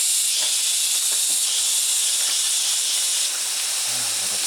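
Steady high-pitched hiss, easing slightly a little after three seconds in.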